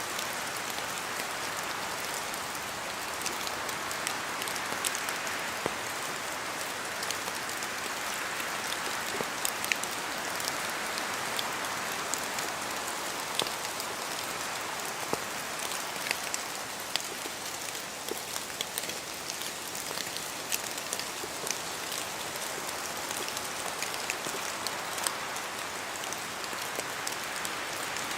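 Rain falling in a spruce forest: a steady hiss that swells and eases a little, with many single drops falling from the trees and striking close by.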